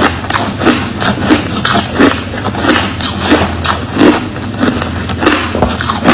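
Crushed ice, coloured with green powder, being chewed: loud crunches in a steady rhythm of about three a second.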